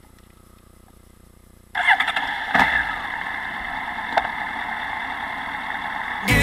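Honda CBR1100XX Super Blackbird motorcycle's inline-four engine catching suddenly about two seconds in, then running steadily, with two short knocks along the way.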